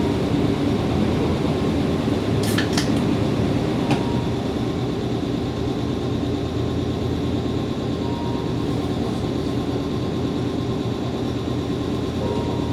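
Running noise of a Nankai 7100-series electric train, heard inside the passenger car while it travels at speed between stations. The noise is steady and low, with two sharp clicks about two and a half seconds in and a fainter one a little later.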